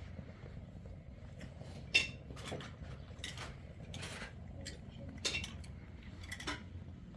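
Scattered light clicks and knocks at irregular intervals, the sharpest about two seconds in, over a low steady rumble.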